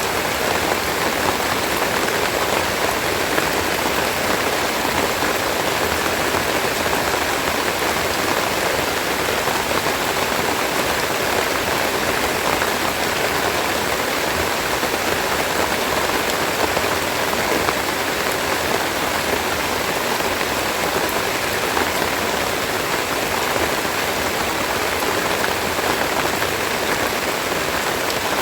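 Steady rain falling, an even dense hiss with scattered drops ticking through it.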